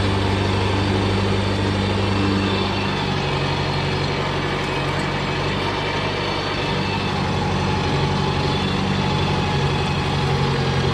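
Kubota tractor's diesel engine running steadily, its note shifting a couple of times.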